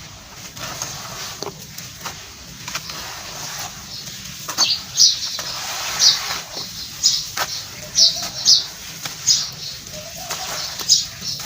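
Dry sand-cement crumbles crushed, crunching and crackling. Gritty rustles and small clicks at first, then crisp crunches about once a second from about four seconds in.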